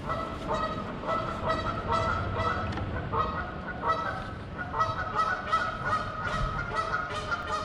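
Geese honking: a rapid run of short repeated calls, several a second and overlapping, as from a small group.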